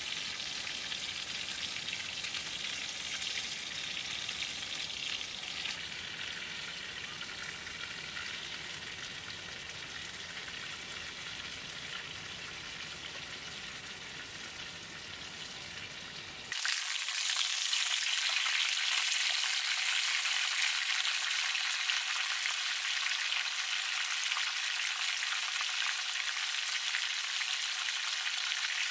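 Food sizzling steadily in a pan. About two-thirds of the way through the sound changes abruptly to a brighter, louder sizzle with the low rumble gone.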